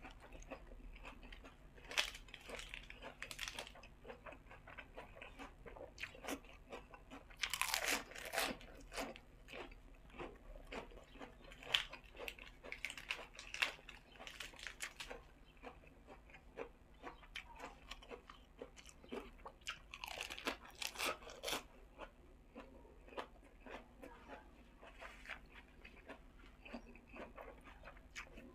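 A person chewing and crunching a spicy pork sai tan salad with fresh lettuce leaves. There are many short wet clicks throughout, and louder crunching comes in stretches about two, eight, thirteen and twenty seconds in.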